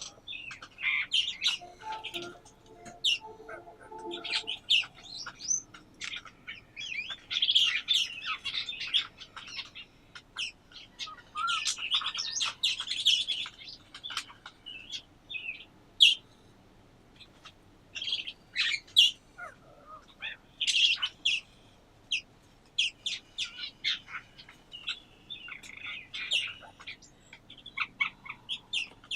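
Several small birds chirping and twittering in overlapping bursts of quick, high-pitched notes, with a lower, repeated call between about two and four seconds in.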